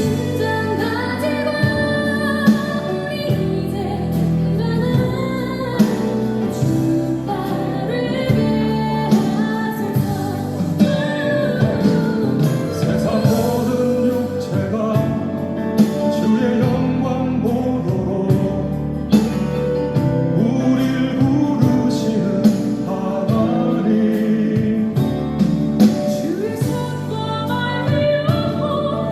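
Christian worship song sung with instrumental accompaniment.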